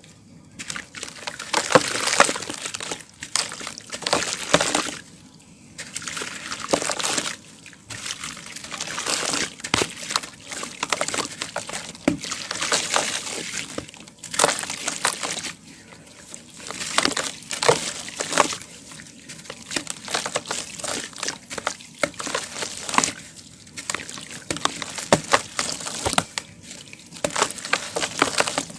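Dry cement crumbled into water: repeated bouts of gritty crunching and crackling mixed with sloshing, each a second or two long with short lulls between.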